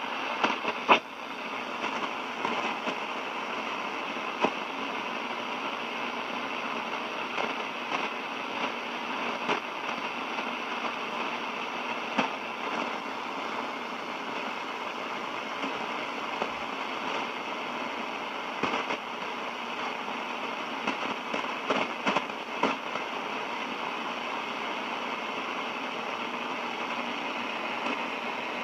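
Shortwave receiver (DX-394 on a 150-foot long-wire antenna) hissing with steady static, broken by frequent, irregular crackling crashes: lightning static from a distant approaching thunderstorm.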